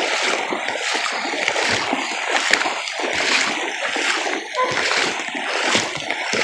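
Feet wading through shallow floodwater, a splash and slosh with each stride at a steady walking pace.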